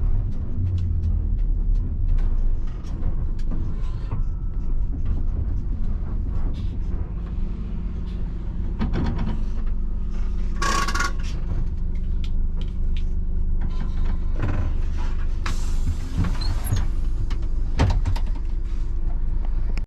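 Onboard sound of a 1990 Mitsubishi Fuso bus being driven: its 7.5-litre diesel engine runs with a steady low hum, under frequent short rattles and knocks. A brief higher-pitched burst comes about halfway through.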